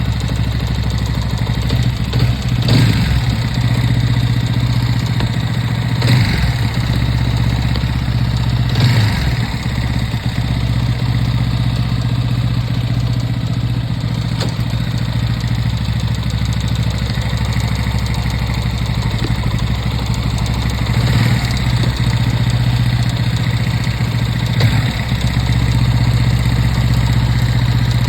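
TVS Apache 200 BS6's single-cylinder engine idling steadily, with about five short throttle blips that rise and fall back to idle, spread through the run. The engine is run to show an engine noise problem.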